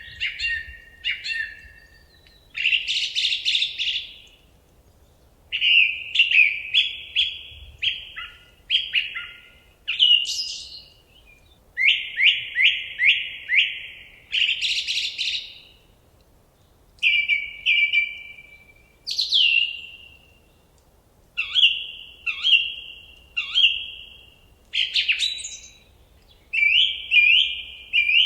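Songbird singing: short, loud phrases of quick repeated whistled notes, a new phrase every couple of seconds, the phrases varying from one to the next.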